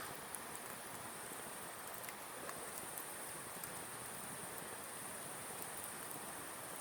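Insects chirring steadily in a continuous high-pitched drone, with a few faint ticks.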